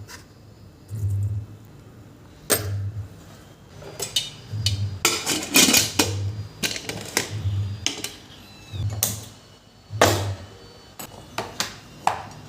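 Kitchen utensils and dishes clinking and knocking in an irregular run of sharp clicks, with a low dull thump recurring about once a second underneath.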